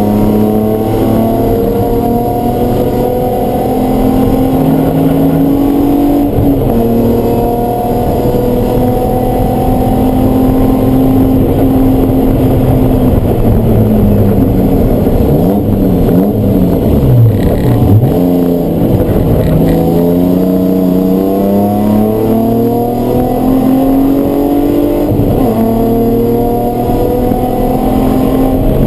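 Race car engine running hard on track: it climbs in pitch and drops back at each upshift. About halfway through it winds down with several quick downshift blips, then pulls up through the gears again.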